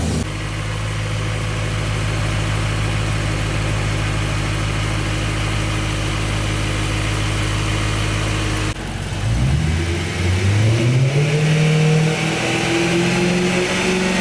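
BMW E90 M3's S65 V8 running at a steady idle after fresh rod bearings have been fitted. About nine seconds in, the sound cuts abruptly to the engine being revved, its pitch rising and falling a couple of times.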